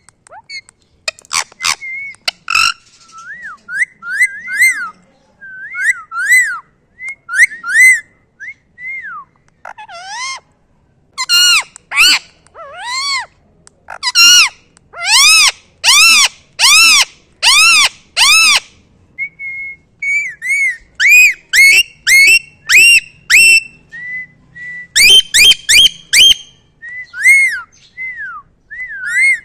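Pet parrot calling in a long series of short, arching whistled calls, with louder rapid runs around the middle and again near the end. A few sharp clicks come early on.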